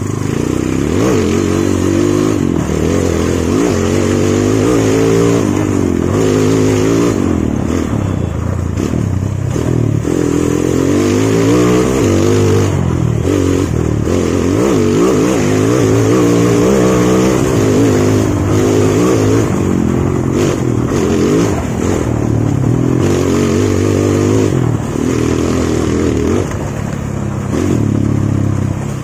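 Single-cylinder motorcycle engine fitted with a Honda Tiger slide carburettor, ridden hard on a rough dirt track, its revs rising and falling again and again as the throttle is opened and closed. This is a road test of the carburettor's throttle response.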